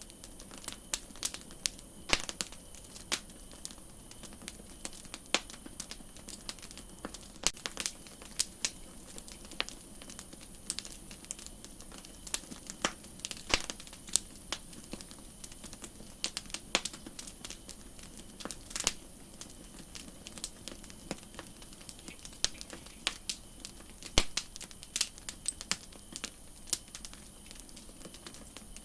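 Campfire crackling, with irregular sharp pops and snaps of burning wood over a steady high hiss that grows louder for a stretch in the middle.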